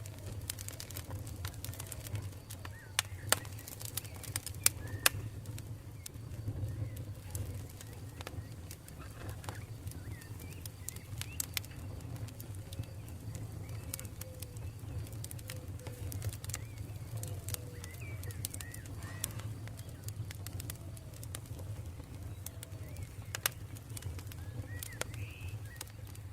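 Campfire crackling, with scattered sharp pops (a cluster of loud ones a few seconds in and another near the end) over a steady low rumble. Birds call in the background in short runs of gliding notes.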